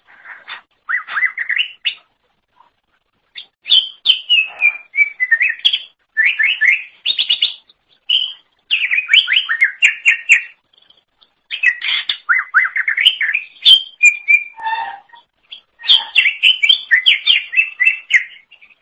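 Green leafbird (cucak ijo) singing: bouts of quick, varied whistled and chattering notes, with short pauses between phrases.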